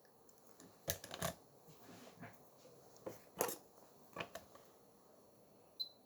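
Small tools and parts clicking and scraping on a workbench during a watch repair, in a few short clusters, with a brief high blip near the end.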